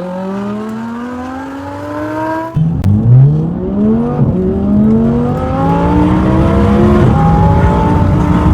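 Audi R8's naturally aspirated V10 with a custom exhaust accelerating hard, its revs climbing steadily. About two and a half seconds in the pitch drops sharply on an upshift and climbs again, with another shift near the end.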